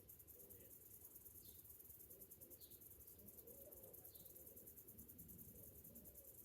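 Faint, steady high-pitched buzz of cicadas in rapid even pulses, with four short high chirps spread through it over a low background rumble.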